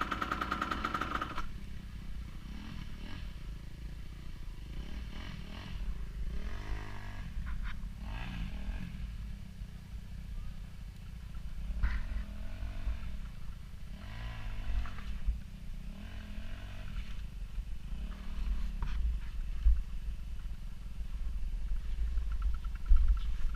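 Off-road vehicle engine revving up and down again and again over a heavy low rumble, with a couple of sharp knocks.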